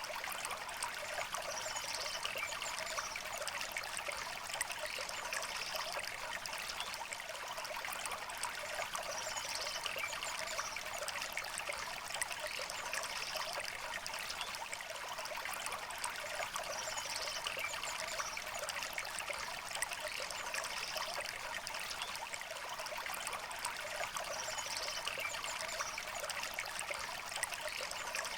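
Shallow river water running and trickling steadily over stones, with faint high bird calls coming in every few seconds.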